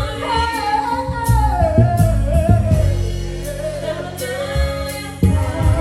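Live gospel music: a solo voice holds a long, bending sung line over bass, keyboard and drums keeping a steady beat, with backing singers.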